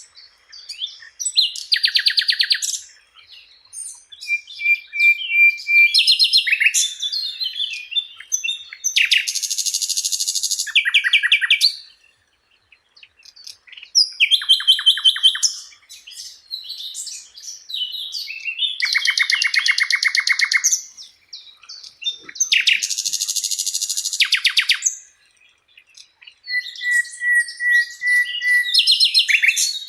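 Sikatan Londo flycatcher singing in a run of phrases, each a couple of seconds long with short pauses between them. The phrases mix fast rattling trills, quick varied chirps and a held high whistle.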